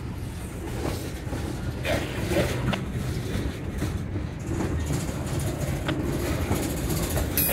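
Freight train cars (boxcars, a covered hopper and a centerbeam lumber flatcar) rolling past close by: a steady low rumble of wheels on rail, with a few scattered clicks and clanks.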